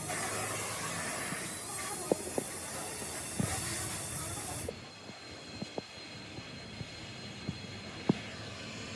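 A steady hiss that cuts off abruptly about halfway through, with scattered sharp taps and knocks.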